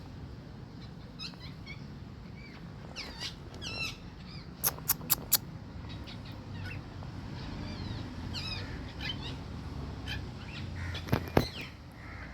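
Birds chirping in short, scattered calls over a steady low background hum. A run of four sharp clicks comes about five seconds in, and two more near the end.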